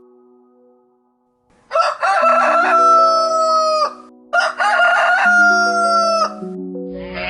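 A rooster crowing twice, two long loud calls each held level and then dropping off at the end, over soft background music.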